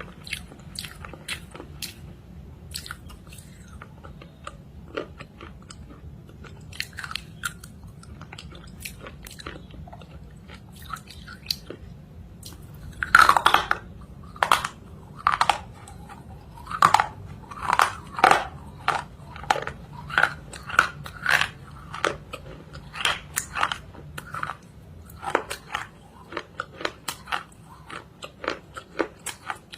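Close-up crunching of something hard being bitten and chewed. There are small crackles throughout, a loud bite about 13 seconds in, then a run of loud chewing crunches.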